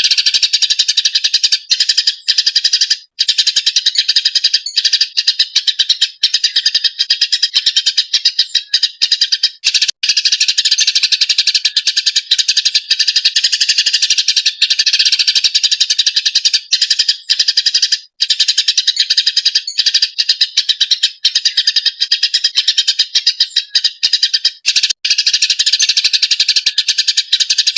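Eurasian tree sparrow (burung gereja) chirping loudly in a fast, almost nonstop stream of high chirps with only brief breaks: agitated, 'ngamuk' calling.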